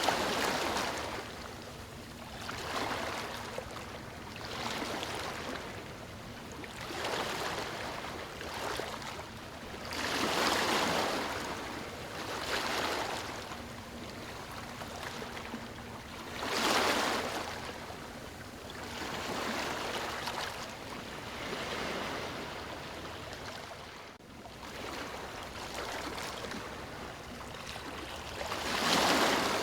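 Small waves washing in and out in repeated swells about every two seconds, with three bigger surges: about a third of the way in, past halfway and at the end.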